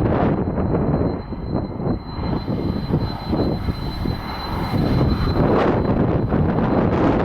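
Airliner engines with a thin, steady high whine, half-buried under heavy typhoon wind buffeting the microphone.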